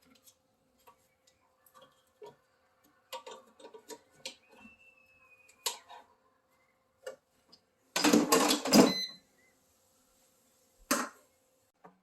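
Air fryer tray and cooking utensils clinking and knocking as chicken pieces are turned over: scattered light clicks, then a louder metallic clatter about two-thirds of the way through and one more knock near the end.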